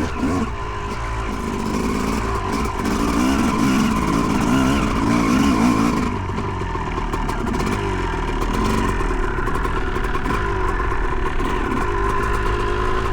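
Two-stroke dirt bike engine, a 2008 Yamaha YZ250, being ridden: the revs rise and fall repeatedly for about the first six seconds, then hold steadier.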